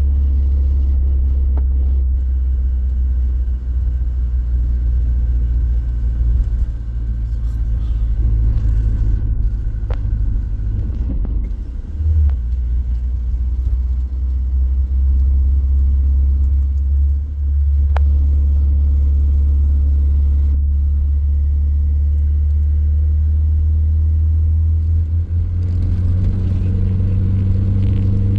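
Steady low rumble of a motor vehicle on the move, with an engine hum that becomes clearer in the last few seconds.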